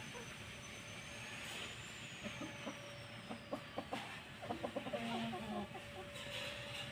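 Desi chickens clucking: a run of short clucks, thickest in the middle of the stretch, over a faint steady hum.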